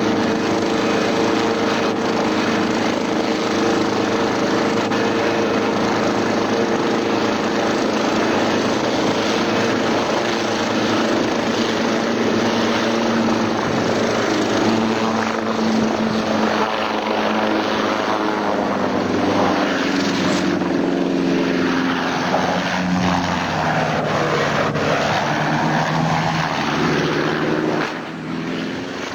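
Helicopter engine and rotor running steadily, with a pitch that shifts up and down in the second half; the sound drops in level shortly before the end.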